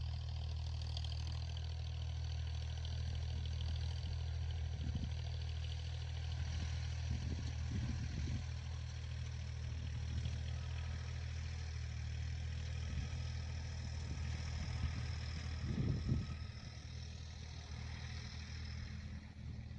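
Tractor engine running steadily while ploughing, with a few knocks and clanks; the loudest comes about sixteen seconds in, after which the engine runs a little quieter.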